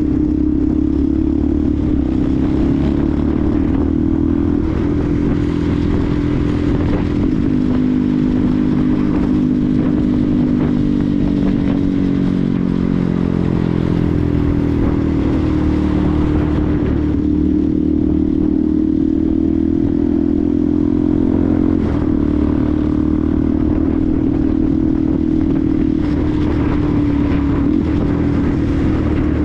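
Benelli TNT 125's single-cylinder engine running steadily under way, its pitch dropping about a quarter of the way in and climbing back up by the middle, then holding steady.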